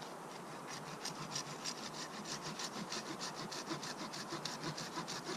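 Hand saw cutting through a piece of firewood: quick, even back-and-forth scraping strokes, about six a second.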